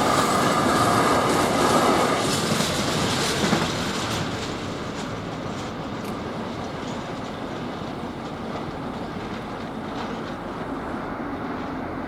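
Freight train wagons rolling past with a clickety-clack of wheels over the rail joints. The sound is loudest for the first four seconds or so, then drops to a quieter, steady rumble as the train moves away.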